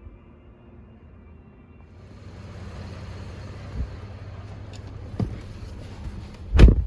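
Handling sounds in a pickup truck's cab: a low steady rumble with two light knocks, then a single heavy thump near the end.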